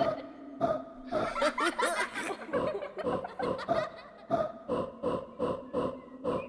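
Cartoon characters laughing wordlessly in short, quick bursts, about three a second in the second half.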